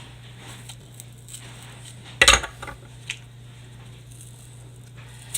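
Hand tools working on a firework mortar shell: one loud, short clatter about two seconds in, then a few lighter clicks, over a steady low hum.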